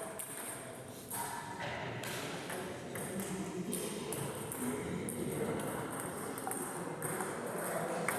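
Table tennis ball struck back and forth in a rally: sharp clicks of the ball off rackets and table about once a second, over a murmur of voices in a large hall.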